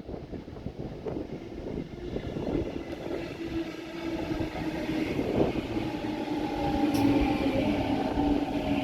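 A train approaching and growing louder, with a steady pitched sound of several tones coming in about three seconds in over a low rumble.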